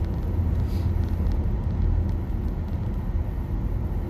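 Steady low rumble of road and tyre noise inside the cabin of a moving Nissan Leaf electric car, with no engine sound.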